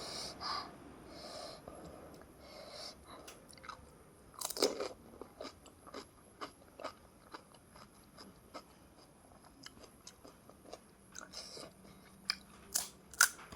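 Crisp fuchka (panipuri) shells being bitten and chewed, a scatter of small crunching clicks through the whole stretch. A louder crunch comes about four and a half seconds in, and a quick run of sharper clicks near the end.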